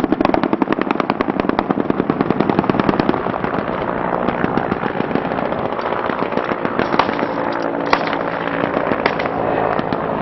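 Machine guns firing: a long rapid burst for about three seconds, then continuing automatic fire with a few sharp single cracks near the end, over a steady mechanical hum.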